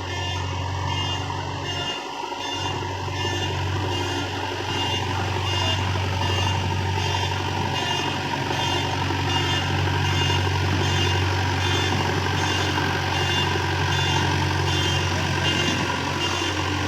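Diesel engine of a JCB 3DX backhoe loader running steadily under its reversing alarm, which beeps evenly about twice a second.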